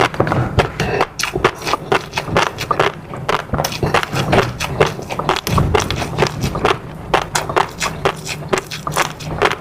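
Close-miked eating: chewing and wet mouth sounds, a rapid, irregular run of clicks and smacks.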